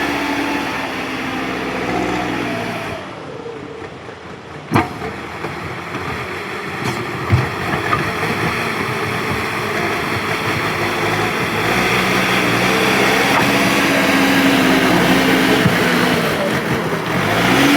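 Bulldozer engine running, its pitch shifting up and down, with a sharp click about five seconds in. The engine grows louder and steadier in the second half.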